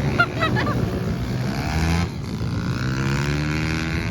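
Pit bike engines running at race pace, the pitch rising and falling as the bikes rev and shift. A short high squeal comes shortly after the start.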